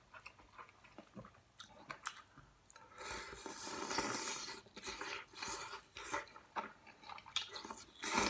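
A person eating kimchi stew close to the microphone: chewing, with scattered light clicks and a longer noisy stretch in the middle.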